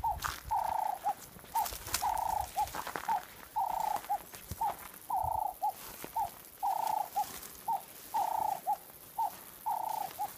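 A bird calling a repeated three-note phrase, short, long, short, about once a second, in a steady rhythm.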